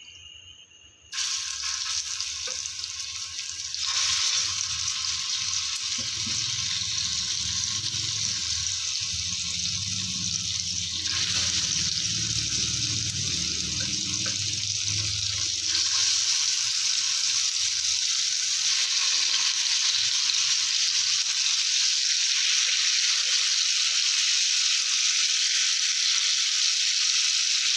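Marinated chicken pieces sizzling in hot oil on a tawa. The sizzle starts suddenly about a second in and grows louder in steps as more pieces go in.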